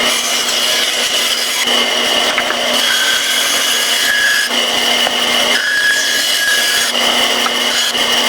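Bandsaw running with a steady hum while its blade rough-cuts a maple handle blank, the cutting noise varying as the wood is fed through.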